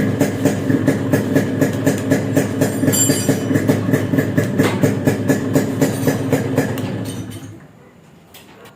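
Freshly rebuilt Yamaha RX100 98 cc single-cylinder two-stroke engine running at idle with an even, rhythmic beat of about four pulses a second. The sound fades away about seven and a half seconds in.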